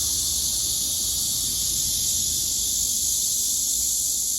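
Cicadas calling in chorus: a steady, unbroken high-pitched buzzing drone.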